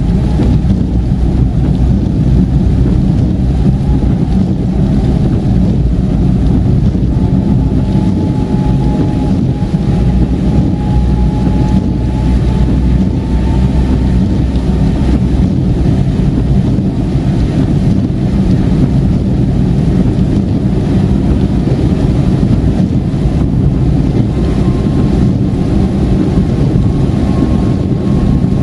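Steady road and engine rumble inside a car cruising on a wet, rain-soaked highway, with tyre noise and a faint whine that drifts slightly in pitch.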